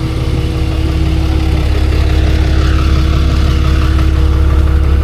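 A vehicle engine running steadily with a deep drone. It grows slightly louder over the first second or so, then holds.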